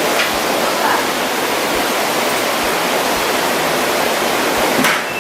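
Steady, loud rushing noise with a short click near the end.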